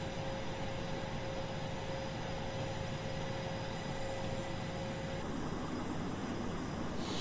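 Steady mechanical noise of an aircraft carrier's flight deck, with a thin steady whine that stops about five seconds in.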